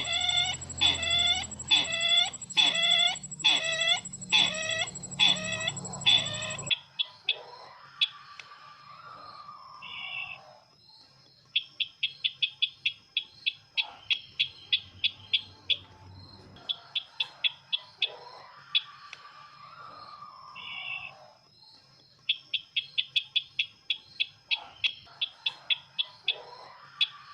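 Sisintar bird calls: for about the first seven seconds a loud call repeated a little under once a second, each note sweeping down; after that the calls go quieter, with fast runs of ticking notes, short buzzy notes and soft warbling phrases.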